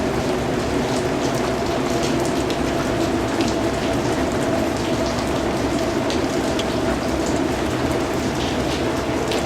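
Steady rain falling, with scattered individual drops ticking over a continuous even hiss.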